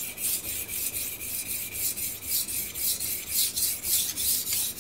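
Steel knife blade being stroked back and forth on a wet Finnish slate sharpening stone, a quick, even rhythm of scraping strokes, about four a second. The blade is skating a bit on top of the stone but still removing metal.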